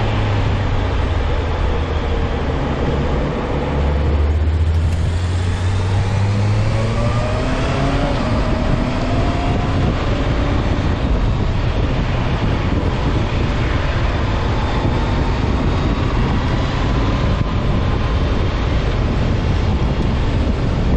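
Honda CB650F inline-four engine running under load while riding, its pitch rising in a few steps as it pulls through the gears, then settling under a steady rush of wind noise on the microphone.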